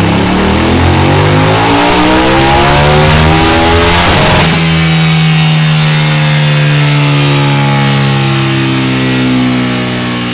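Motorcycle engine breathing through a Delkevic oval 14-inch carbon fibre exhaust, revving up with its pitch climbing steadily for about four seconds. The throttle then closes abruptly and the engine runs on with a slowly falling pitch.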